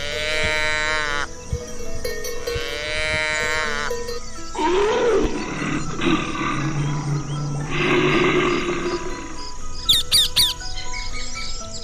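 Animal calls over background music: two long pitched calls in the first few seconds, then a rough growling roar lasting several seconds, then quick bird chirps near the end.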